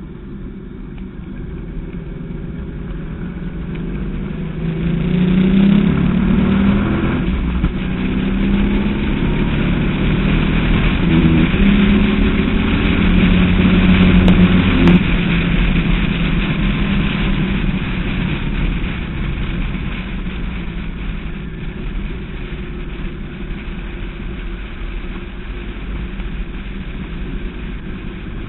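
Westfield SEight's Rover V8 heard on board, accelerating hard with its note rising, a break in the sound about a quarter of the way in as it changes gear, and pulling loudly on until about halfway. The engine then eases off and runs more quietly and steadily.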